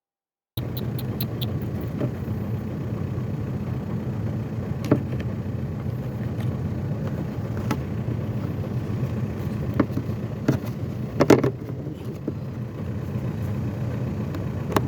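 Skoda Octavia's engine running steadily, cutting in abruptly about half a second in, with a few light clicks and knocks over the top.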